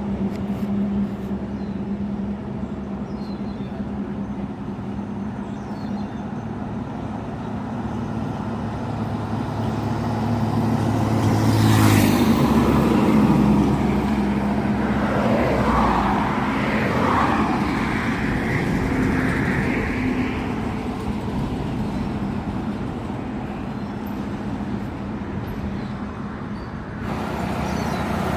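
Tata truck's diesel engine running on the road with steady road noise. About twelve seconds in the engine note drops and changes, with a sharp click at the same moment.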